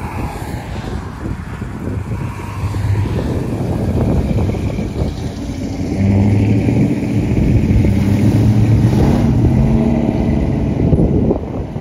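A car engine running close by, getting louder about halfway in, its pitch shifting briefly near the end before it drops away. Heavy wind noise on the microphone runs underneath.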